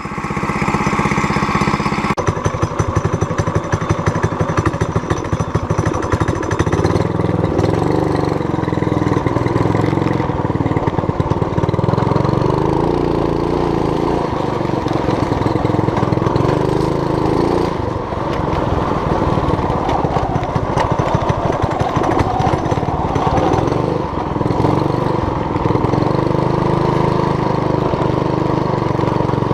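Small engine of a homemade mini bike running while it is ridden, its revs rising and falling.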